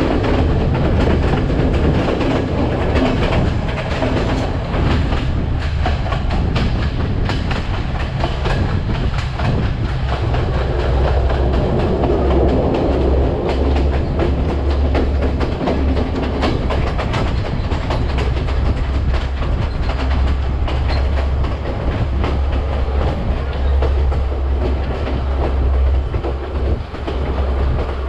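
Passenger train running, heard from a carriage window: a steady low rumble with irregular clicking of the wheels on the rails.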